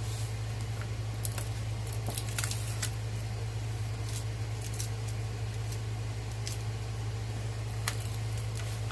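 Scattered crinkles and light taps of a diamond-painting canvas and its protective cover being handled and flattened by hand, over a steady low hum.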